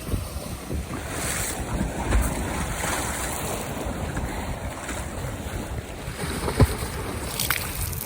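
Wind buffeting the microphone over small lake waves lapping, with a few soft low thumps, the sharpest about six and a half seconds in.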